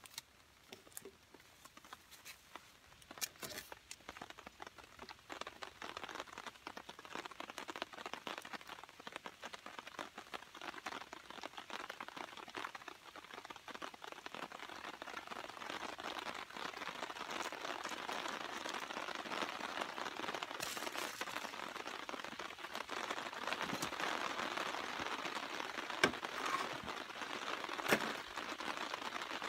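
Rain falling, a steady pattering hiss that grows heavier over the first half, with a couple of sharp ticks near the end.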